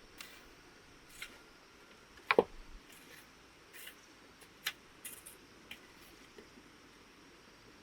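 A few scattered sharp knocks and clicks over a faint hiss, the loudest a single knock a little over two seconds in.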